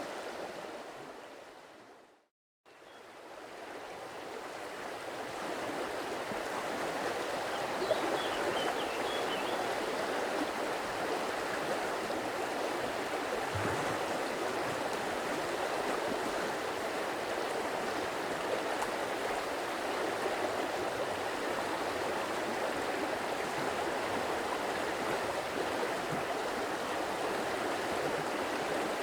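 Flowing stream, a steady rush of running water. About two seconds in it fades out to a moment of silence, then fades back up over the next few seconds. A few faint bird chirps come about eight seconds in.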